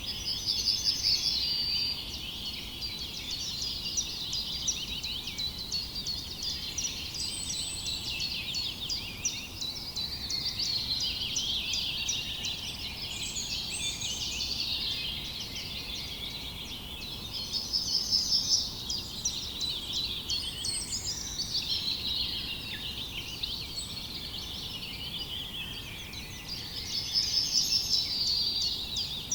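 A dense chorus of small birds chirping and twittering without a break. A short, rapid trill stands out three times: near the start, about midway and near the end.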